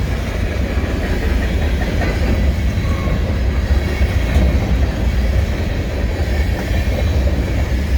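Freight train moving along the track, with a steady, heavy low rumble.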